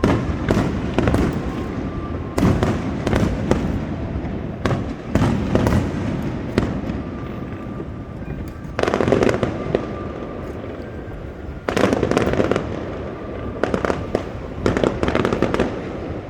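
Fireworks show: shells bursting one after another with sharp bangs, and several stretches of dense crackling, the heaviest about nine, twelve and fifteen seconds in.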